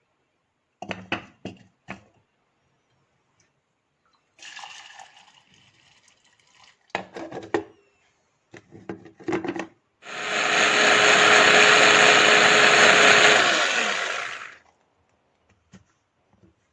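A small electric appliance motor runs loudly and steadily for about four seconds and then winds down, after a few seconds of light clicks and knocks from handling things.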